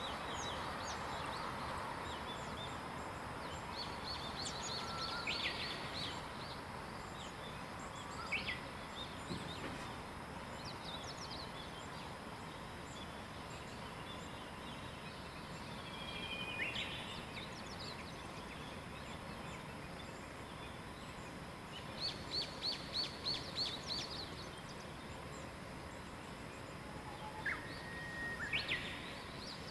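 Wild songbirds calling and singing now and then over a steady background hiss, including a quick run of about seven high notes past the middle and a rising call near the end.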